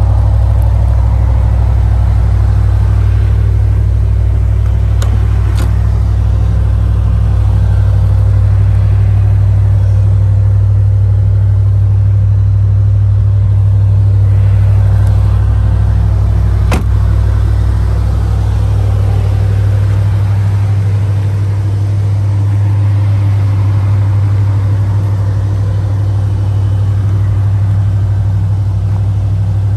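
A 1973 Corvette's 350 small-block V8 idling steadily, with a few short clicks along the way, the sharpest about two-thirds of the way through.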